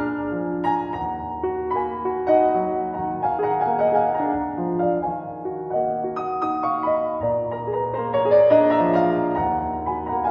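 Background piano music, a slow, gentle melody of sustained notes.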